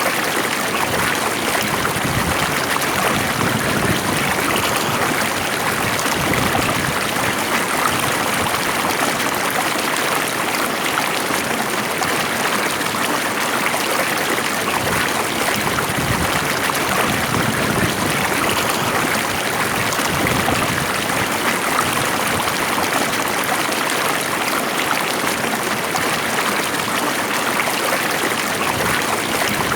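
A stream of water flowing steadily and calmly, an even rushing with some trickling.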